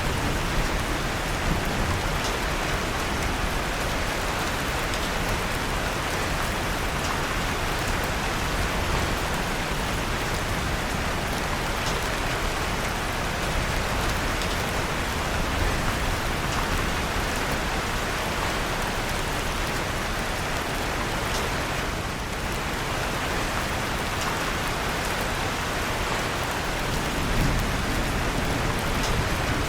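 Steady rain falling, with the crackling of a fire in a fireplace mixed in as scattered small pops.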